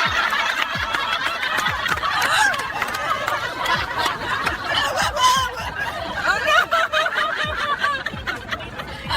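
People laughing hard, snickering and giggling without a break.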